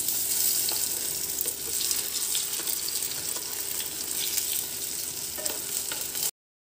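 Hot oil sizzling steadily as chickpea kebab patties shallow-fry in a nonstick frying pan, with light clicks and scrapes of a steel spoon turning the patties over. The sizzle cuts off suddenly near the end.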